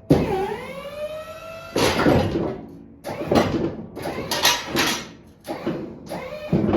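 A truck-mounted snowplow's electric-hydraulic pump motor whining in about five short runs as the blade's functions are tested. The first run dips in pitch, then rises and holds.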